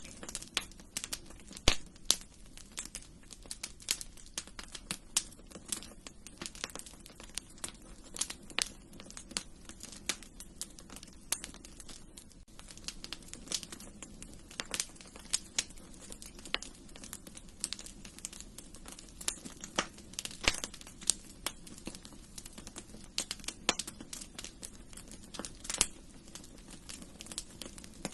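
Wood fire in a fireplace crackling and popping, with irregular sharp snaps over a steady low rumble of the flames.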